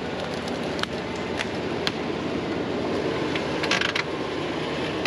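Jeep idling while its steering is turned left and right, with scattered sharp clicks and creaks from the front end; the front end is being checked for the source of a clunk heard on the trail.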